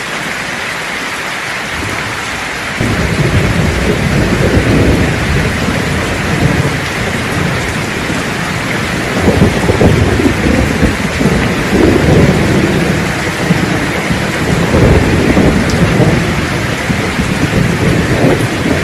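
Steady rain falling, with thunder: a deep rumble comes in suddenly about three seconds in and rolls on, swelling louder about halfway through and again later.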